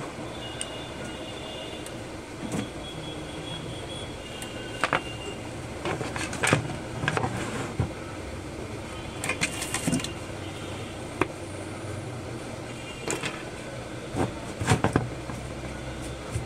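Scattered clicks and knocks of tools and parts being handled on a repair bench while filter capacitors are swapped in a desktop power supply. They sound over a steady rumble of road traffic.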